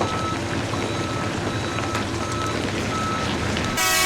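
Reversing alarm of a construction vehicle beeping about once a second over steady heavy-machinery engine noise. A brief, louder sound with many overtones cuts in near the end.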